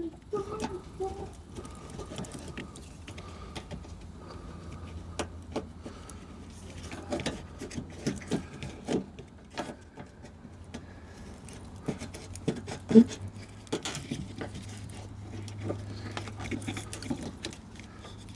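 Scattered clicks, taps and rattles of hands and a tool working at a door handle's retaining clip inside a car door, with the sharpest knock about two-thirds of the way through. A low steady hum runs underneath.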